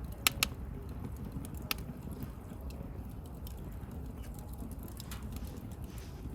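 Wood bonfire burning with a steady low rumble and scattered small crackles, with two sharp pops just after the start and another just before two seconds in.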